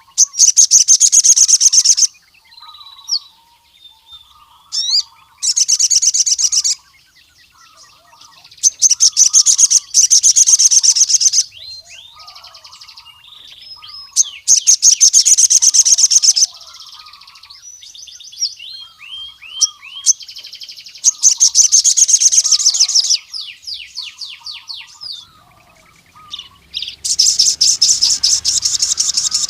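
Male crimson sunbird (sogon) singing: six loud, rapid, high trills of about two seconds each, with soft short chirps in the gaps between them.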